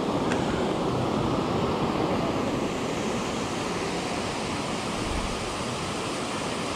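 Steady rushing of a waterfall's falling water, a constant deep noise with no breaks.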